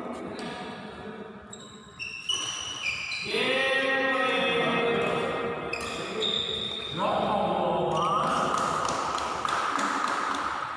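Badminton rally in a sports hall: court shoes squeaking on the floor in short high squeals and glides, with sharp racket hits on the shuttlecock and players' voices.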